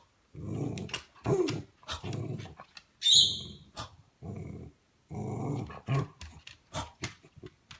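Dachshund making a string of short, low, growly huffs and snorts, with one sharper, hissy burst about three seconds in that is the loudest sound in the run: a sneeze given in place of the bark it is being coaxed for.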